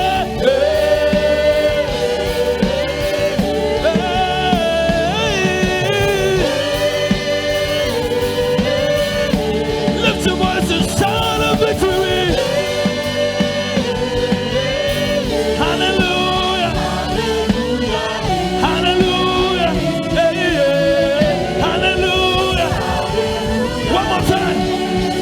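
Gospel worship music: a choir and worship singers with a live band, sustained sung lines over a steady beat.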